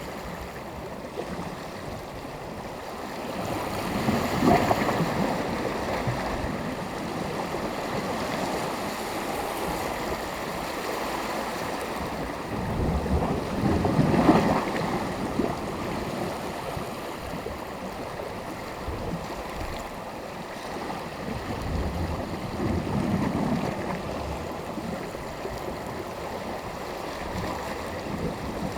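Small waves breaking and washing on the shore, with swells about 4, 14 and 23 seconds in, and light wind on the microphone.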